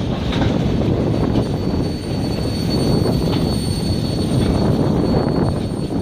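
Train rolling past: a loud, steady rumble with scattered faint clicks.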